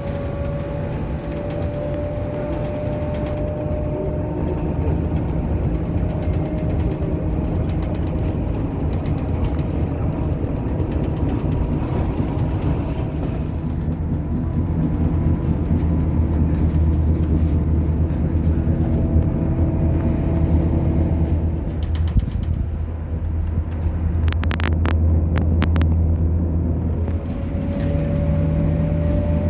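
Steady low vehicle rumble with a faint whine that drifts slowly up and down in pitch.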